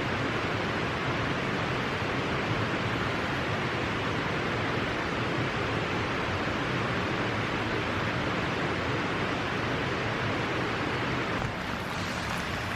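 Steady rushing of water with no crackle or knocks; the sound changes suddenly shortly before the end.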